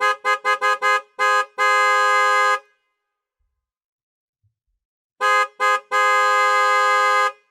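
Car horn honked in a quick run of short toots, then held for a long blast of about a second. After a silence of a few seconds it sounds two short toots and another long blast of about a second and a half.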